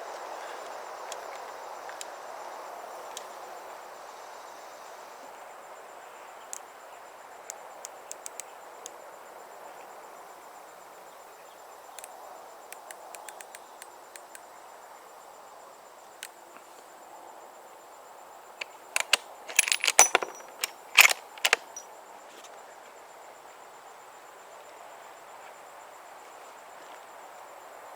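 Light metal clicks and clinks from handling shooting gear, a few scattered early on and a quick louder cluster about two-thirds of the way through, over a steady background hiss.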